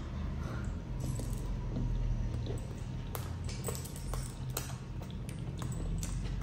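Close-miked chewing of a mouthful of food, with a run of sharp, irregular crunching clicks starting about a second in, over a steady low hum.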